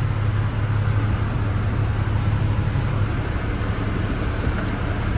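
International WorkStar 7300 truck's diesel engine idling steadily, heard from inside the cab as a low hum, with the air conditioning blowing.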